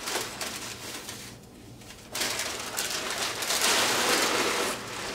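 Plastic packaging rustling and crinkling as bagged parts are handled, fainter at first and loudest for about three seconds in the second half.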